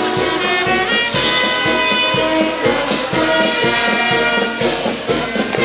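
Band music with brass instruments playing over a steady, regular drum beat.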